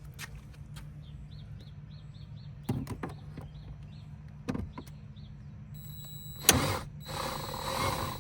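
Hand tool working screws loose on a truck's dashboard trim: scattered clicks and knocks, a sharp click about six and a half seconds in, then a dense scraping rattle for the last second or so. A steady low hum runs underneath.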